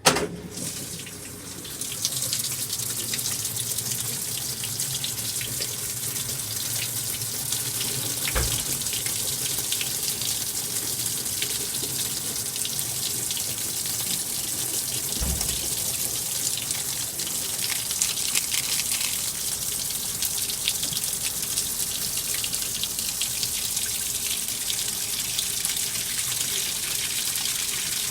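AQUA 5 kg coin-operated washing machine filling its tub with water at the start of a cycle: a sharp click, then a steady rush of water from about two seconds in. Two short low thumps come partway through.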